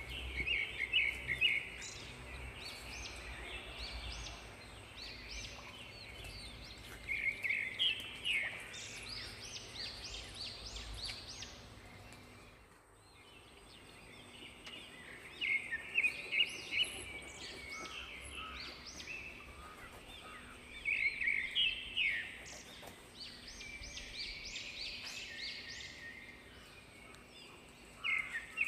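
A bird calling in bouts of rapid chattering notes, a burst every few seconds, over steady outdoor background noise.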